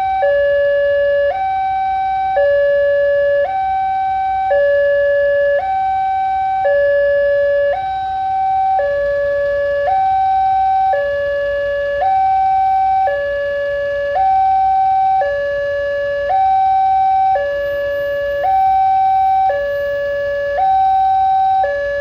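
Railway level-crossing alarm sounding an electronic two-tone signal, switching between a lower and a higher pitch about once a second, steady and loud. It warns that a train is approaching and the crossing is closing.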